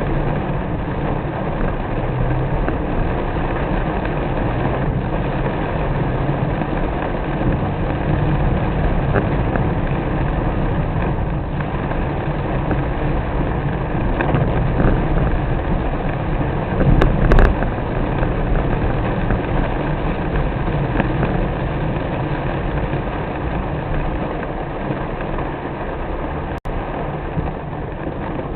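Car driving in the rain: a steady rumble of engine and tyres with a rushing wash of rain, with a brief louder surge a little past the middle.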